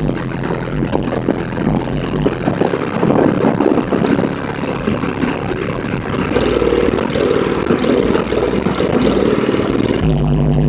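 Heavy bass played through three Fi SP4 15-inch car subwoofers, heard as loud, distorted low bass with a dense crackle over it. A steady low note comes in near the end.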